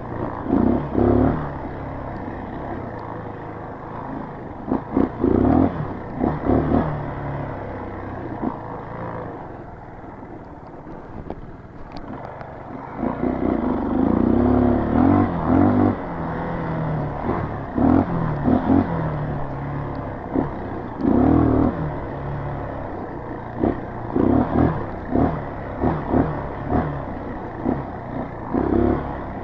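A street-legal dirt bike's engine revving up in repeated surges and dropping back as it rides a rutted trail of whoop-de-doos. It goes quieter for a few seconds near the middle.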